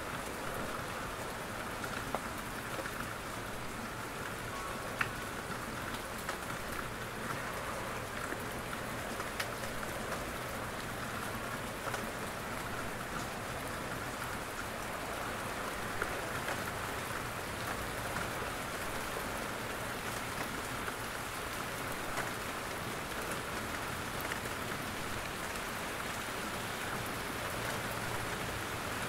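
Steady rain falling in a forest, with scattered single drops hitting sharply now and then as water drips from the trees.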